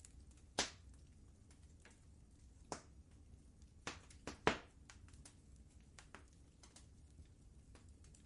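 Wood fire crackling in a fireplace: irregular sharp pops, the loudest in a cluster about four seconds in, over a faint low steady rumble.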